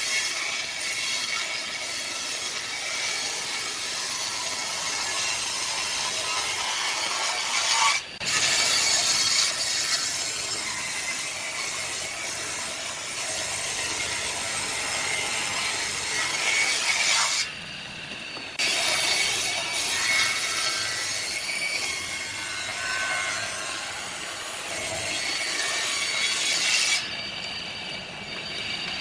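A tool working wood, a continuous sawing or rubbing sound that breaks off abruptly about 8 seconds in and again for about a second near the 17-second mark before resuming.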